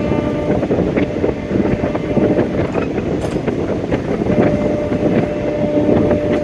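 Diesel-hauled Indian Railways express train running on the rails: a steady dense rumble of wheels on track with scattered clicks, and a thin steady tone that comes and goes.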